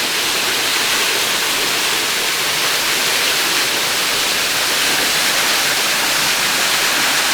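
Waterfall pouring close by: a steady, even rush of falling water.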